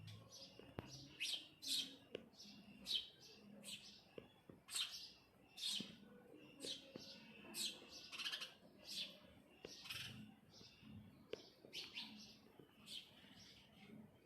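A small bird chirping: short, sharp chirps repeated about once a second, some in quick pairs.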